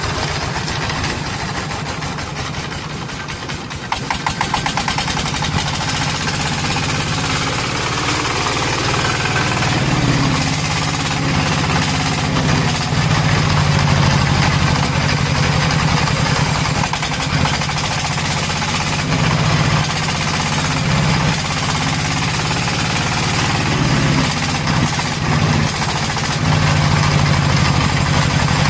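Single-cylinder diesel engine of a Vietnamese công nông farm tractor-truck running with a rapid, even chugging, getting louder about four seconds in.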